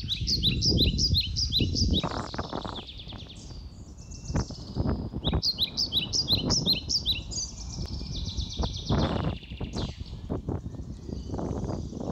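A songbird singing in short bouts of rapid, repeated falling chirps, one at the start, another in the middle and another near the end, over a constant low rumble of noise.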